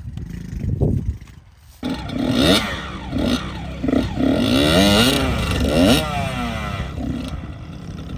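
Kawasaki KX100's two-stroke engine revving hard under throttle on a hill climb, its pitch climbing and dropping again and again. It dips briefly about a second in and settles to a lower, steadier note near the end.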